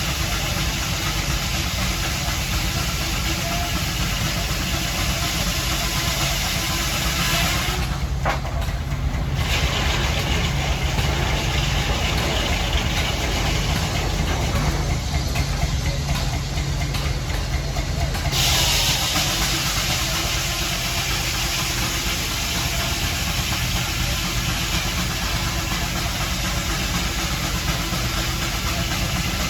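Engine running at a steady idle under a constant hiss. The hiss drops away for about ten seconds partway through, while the engine keeps on.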